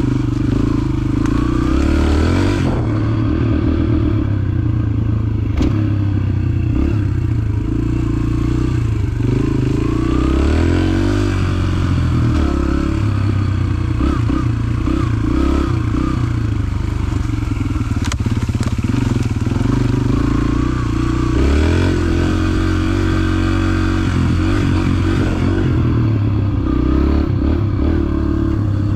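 Dirt bike engine running under way, its revs rising and falling steadily, with occasional knocks and rattles.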